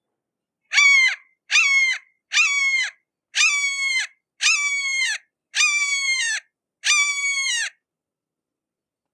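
Red-shouldered hawk calling, a series of seven loud screams about a second apart, each slurring down in pitch, the later ones drawn out a little longer.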